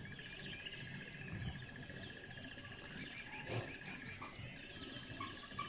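Faint animal chirping in the background, over a steady high-pitched hum, with a couple of soft knocks.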